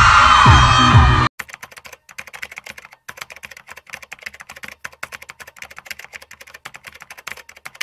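Live concert music with singing cuts off abruptly about a second in. It is followed by rapid, irregular computer-keyboard typing clicks, several a second, accompanying text typed onto the screen.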